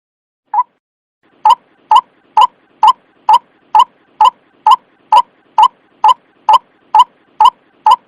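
White-breasted waterhen lure call: one short call, then a steady run of about fifteen short calls, about two a second.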